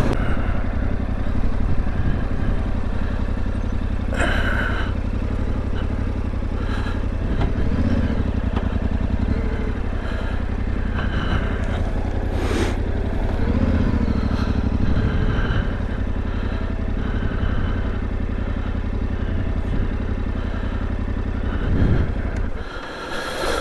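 Yamaha Ténéré 700 parallel-twin engine running steadily while riding, with road and wind noise; the engine note drops away near the end as the bike slows.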